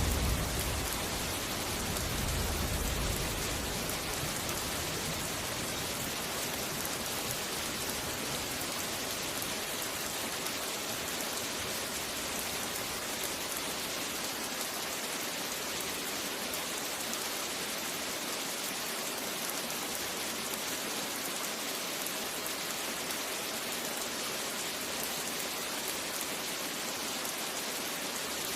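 Steady rain falling, an even hiss, with a low rumble of thunder dying away over the first few seconds.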